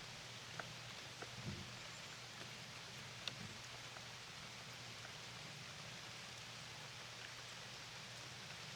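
Steady rain falling, an even hiss with a few sharper drops ticking in the first few seconds. A faint low hum runs underneath.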